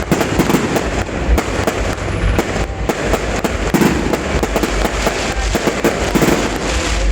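Fireworks display going off in a dense, continuous barrage of bangs and crackles, many per second with no pause, over a low rumble.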